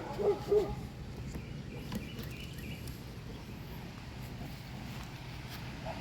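Steady outdoor background noise, with two short animal calls in the first second.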